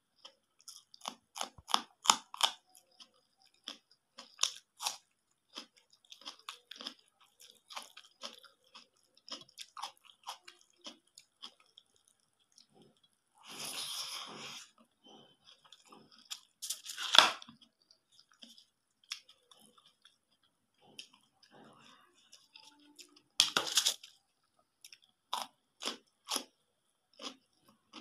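Close-up chewing and crunching of food, mouthfuls of rice and egg curry with bites of raw green chilli, with many small wet clicks and a few louder crunches. A short hissing stretch comes about halfway.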